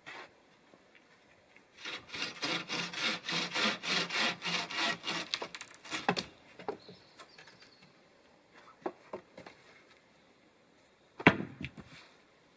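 Rhythmic strokes on wood, about four a second for some four seconds, then a few light knocks and one sharp knock near the end.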